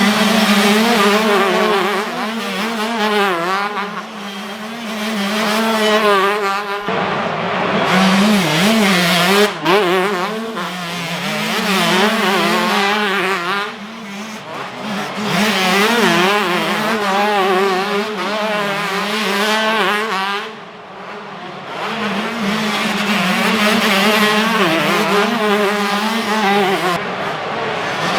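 Several 125cc two-stroke motocross bikes revving hard around the track, their engine pitch rising and falling again and again as the riders open and close the throttle and shift gears. The sound drops away briefly a few times as the bikes move off, then swells again.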